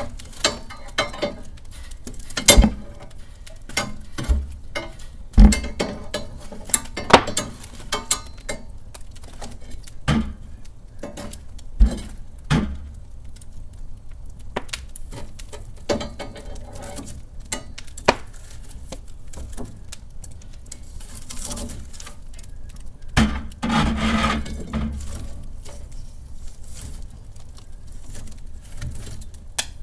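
Wood fire in a fireplace crackling, with irregular sharp pops over a low steady rumble, and a longer hissing flare-up about two-thirds of the way through.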